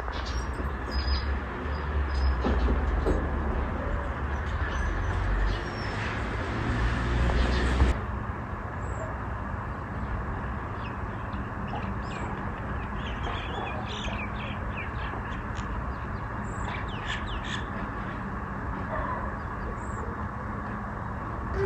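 Birds calling, with short chirps scattered through the second half, over a steady background hiss. A low rumble fills the first eight seconds and stops suddenly.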